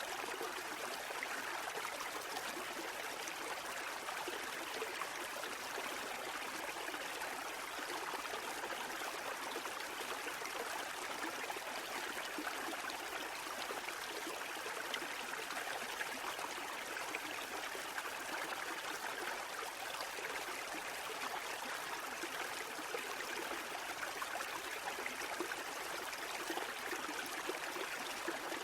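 Sea water rushing in a steady, even wash, with no distinct breaking waves or pauses.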